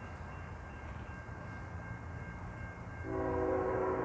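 A CN freight locomotive's horn starts blowing about three seconds in, a held multi-note chord, over the low rumble of the approaching train. Thin steady high electronic tones from the crossing's warning bells sound throughout.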